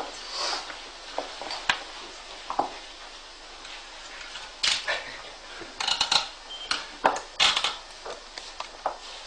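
Irregular light clicks and clinks, scattered and uneven in spacing, with a cluster of louder ones in the second half and no steady motor sound.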